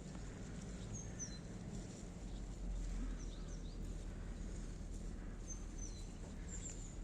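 Outdoor ambience: a steady low rumble with small birds giving short, high chirps now and then.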